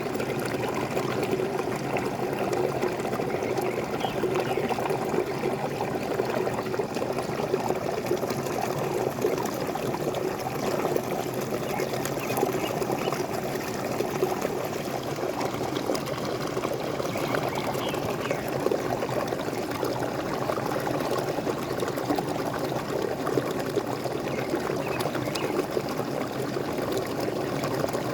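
Small waterfall splashing and gurgling steadily, with a few faint bird chirps now and then.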